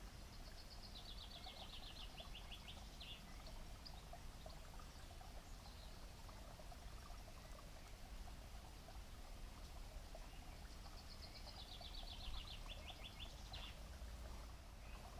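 A small songbird sings the same short phrase twice, about ten seconds apart: a fast run of notes that steps down in pitch and ends in a quick flourish. Faint steady background noise runs beneath.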